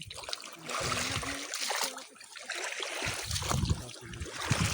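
Water splashing and trickling, with irregular low thuds, as someone moves through shallow water while searching for frogs.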